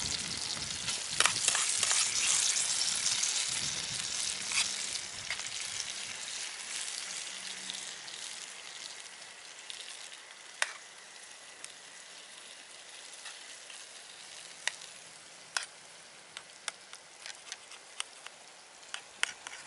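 A stir-fry sizzling in a pan. It is loud at first and dies down over the first ten seconds or so, and sharp pops and crackles come now and then through the second half.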